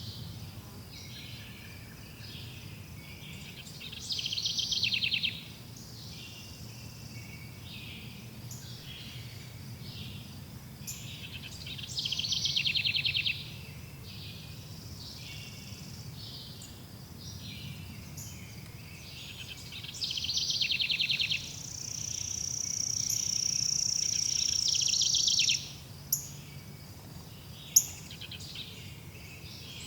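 Birdsong ambience: a loud, rapidly pulsed trill repeats about every eight seconds over softer chirping. A steady high buzz builds for about four seconds past the middle, and there is a sharp tick near the end.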